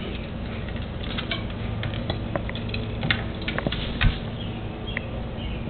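African grey parrot's beak tapping and nibbling at the camera: a run of small, irregular clicks and scratches, with one louder knock about four seconds in.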